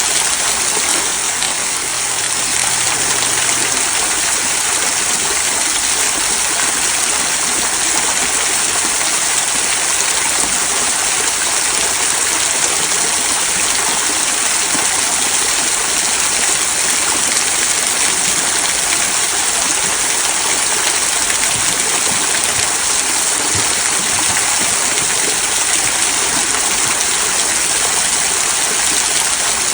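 Small rock waterfall trickling over stones into a stream: a steady, continuous splashing rush of water.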